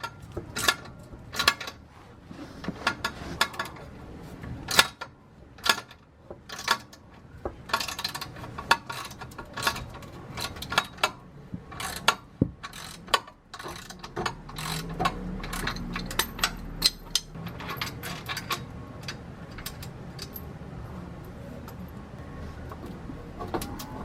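Hand tools working on exhaust bolts: a socket wrench ratcheting, with irregular metal clicks and clanks as the two bolts at the base of the downpipe are loosened and the adapter is pulled out. A low hum rises for a few seconds midway.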